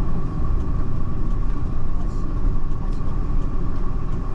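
Steady low rumble of a moving road vehicle heard from inside, with a faint steady whine above it.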